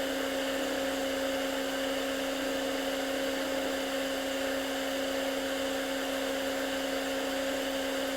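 Steady, unchanging hum with a constant hiss underneath.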